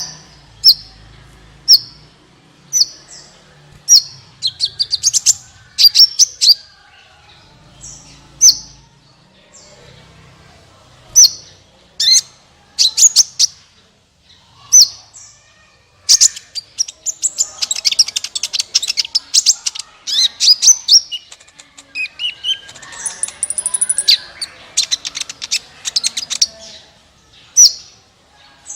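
A sunbird singing vigorously: sharp high chirps repeated about once a second, then quick trills, turning into long dense runs of rapid twittering in the second half.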